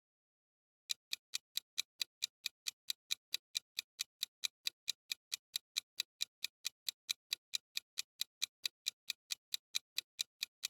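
Clock-ticking countdown timer sound effect: sharp, even ticks, about four to five a second, starting about a second in.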